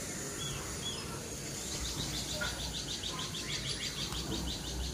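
A bird chirping a couple of times, then a fast trill of high notes, about seven a second, starting about two seconds in, over a steady low hum of outdoor background noise.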